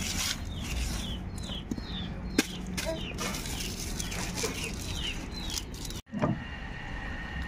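A bird chirping over and over, short falling chirps about two or three a second, over the soft rustle and small clicks of garlic cloves being peeled by hand. About six seconds in the sound cuts out for a moment, then a steady high tone and a low thump follow.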